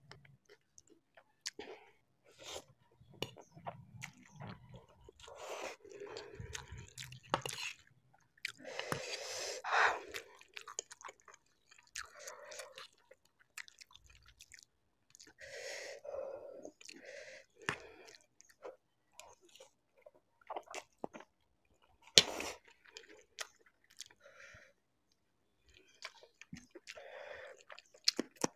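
Close-miked chewing of spicy Maggi instant noodles, with wet mouth clicks and smacks and a louder breathy stretch about nine seconds in. A single sharp tap comes about two-thirds of the way through, and near the end come quick crunchy bites into a raw green chilli.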